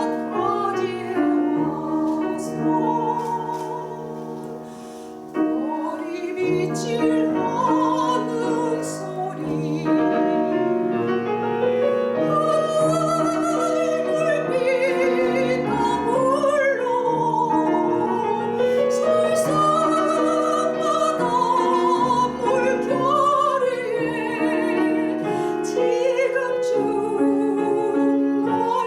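Soprano singing a Korean art song in operatic style with wide vibrato, accompanied by piano. The music drops to a quieter passage around four seconds in, then she comes back in full voice about five seconds in.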